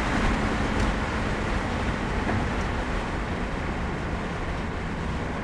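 BMW 330Ci's M54 straight-six engine, fitted with an aftermarket cold air intake, running at an even, light note while the car drives, largely covered by steady road and wind noise that slowly gets quieter.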